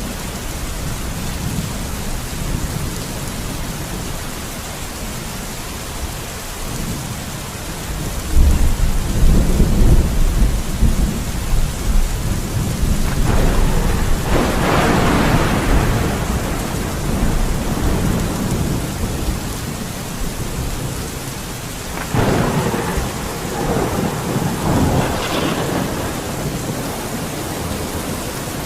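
Steady rain with rolling thunder. A low rumble builds about eight seconds in, a louder, sharper peal follows around fourteen seconds, and another roll of thunder starts a little past twenty-two seconds.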